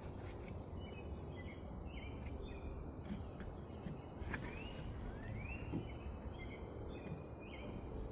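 Insects calling outdoors in one steady, unbroken high-pitched tone, with a few short rising chirps over it.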